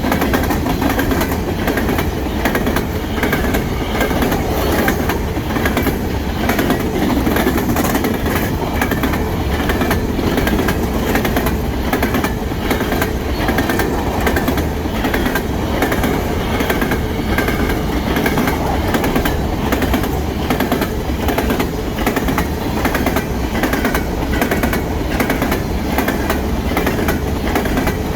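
Freight train's three-bay covered hopper cars rolling past at close range, steel wheels rumbling and clattering steadily over the rails.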